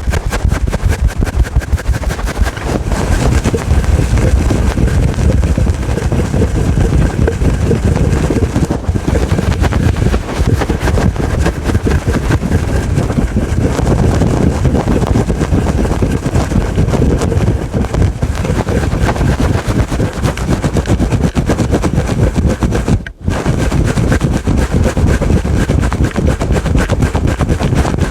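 Fingernails scratching fast and hard on a fluffy furry microphone windscreen, making loud, dense rapid strokes of rubbing noise that break off for a moment a few seconds before the end.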